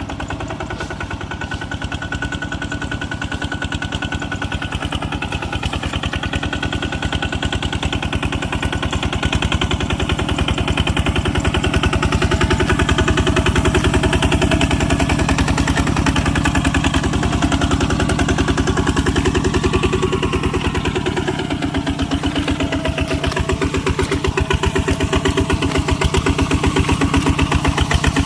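Tractor engine running steadily with a fast, even firing beat, getting louder about ten seconds in.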